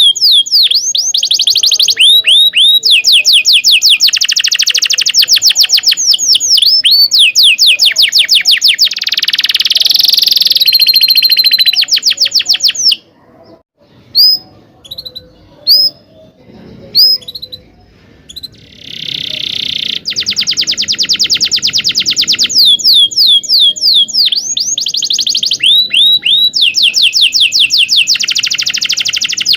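Domestic canary singing: long runs of fast, repeated down-slurred chirps and rolling trills. The song breaks off about 13 seconds in, leaving a few scattered chirps, and resumes about 18 seconds in.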